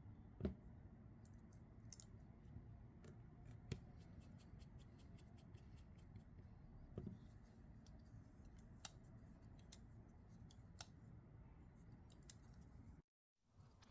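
Faint, scattered clicks of small metal parts over quiet room tone, as a Vosteed Thunderbird folding knife is handled during reassembly. The sound drops out to dead silence shortly before the end.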